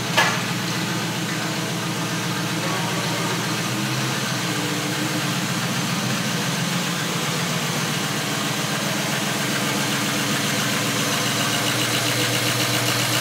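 Turbocharged drift car engine idling steadily.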